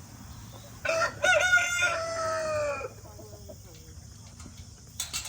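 A rooster crows once, a single call of about two seconds starting about a second in, its pitch held and then sagging slightly at the end. A brief sharp knock follows near the end.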